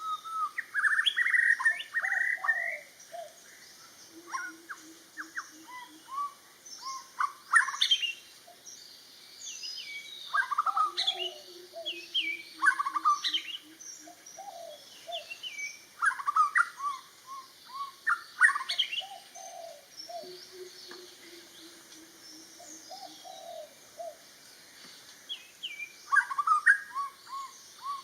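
Male white-rumped shama singing: rich, varied whistled phrases every couple of seconds, with quick rising and falling notes. A low, fast run of repeated notes sounds four times in the background.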